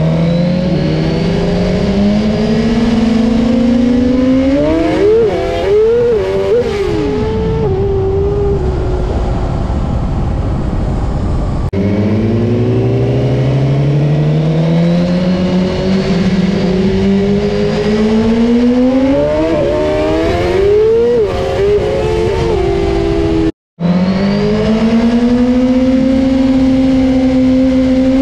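Inline-four sportbike engine at full throttle, its pitch climbing steadily under heavy wind rush. The climb breaks off and starts again lower twice, about 12 and 23 seconds in.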